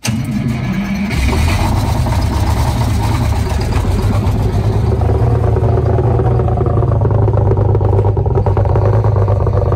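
Rear-mounted diesel engine of a 1989 Crown Supercoach bus started from the rear engine controls. It turns over briefly, catches about a second in, then runs at a steady, loud idle.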